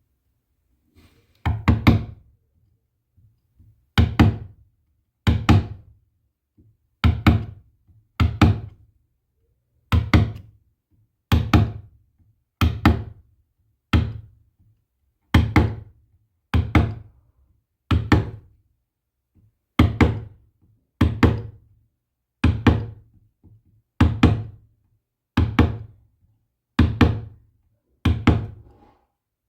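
A steady series of about twenty sharp knocks, struck about once every second and a half, each with a short ringing tail.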